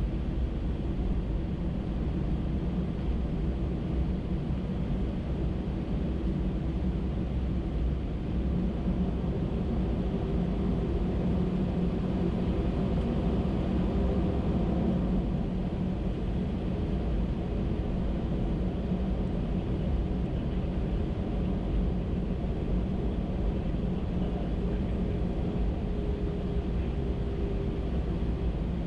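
Cabin noise inside an Airbus A319 with its CFM56 engines running at low power: a steady low drone and hum with no rise or fall in level.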